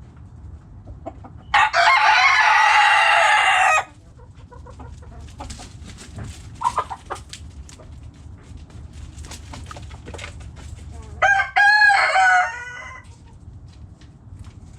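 Backyard rooster crowing twice: a loud, harsh crow about two seconds in and another near the end, whose pitch rises and falls. Hens cluck softly between the crows.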